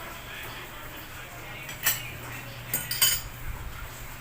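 A metal spoon clinking against a bowl while eating soup: a single clink about two seconds in, then two quick clinks around three seconds in.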